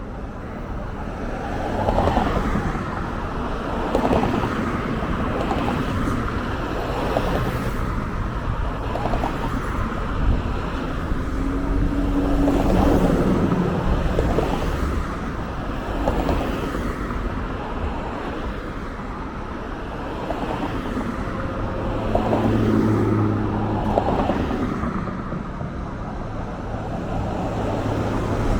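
Motor vehicle running, a steady road-noise hum that swells and eases about every two seconds.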